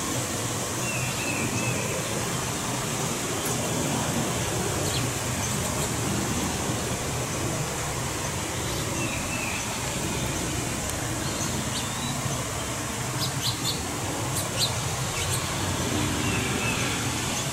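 A small bird gives a short chirping call three times, several seconds apart, over a steady background noise. A few faint clicks come near the end.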